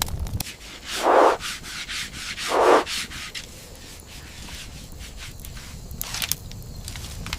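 Two loud rasping scrapes about a second and a half apart, with scattered sharp clicks and crackles between them.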